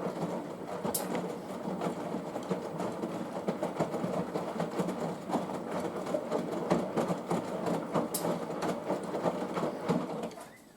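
Front-loading washing machine drum tumbling wet laundry during the heating stage of a 95 °C wash: a busy run of many small knocks and clicks that stops abruptly near the end as the drum pauses.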